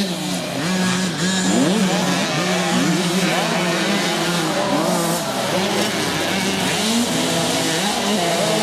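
Motocross bikes racing, their engines revving up and dropping back again and again as the riders work the throttle and shift, with more than one engine heard at once.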